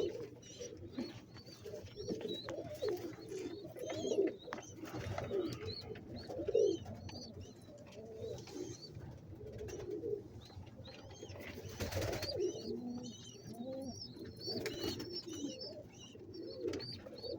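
Domestic fancy pigeons cooing again and again in a loft, with many short, high chirps and scattered clicks among the coos.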